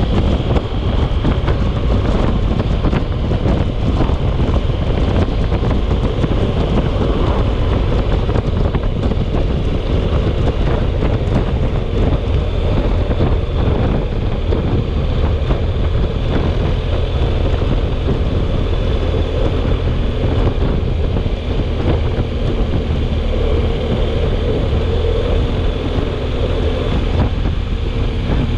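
Storm wind buffeting the microphone: a loud, steady rushing noise, heaviest in the low end.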